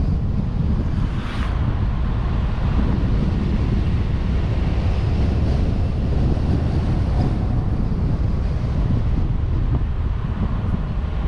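Wind buffeting a vehicle-mounted camera's microphone, a steady low rumble with the vehicle's road and engine noise mixed underneath.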